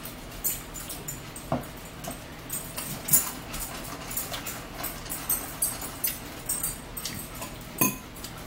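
Close-up wet chewing and lip-smacking of a person eating salad, a quick run of small crisp clicks. A louder knock comes about one and a half seconds in and another near the end.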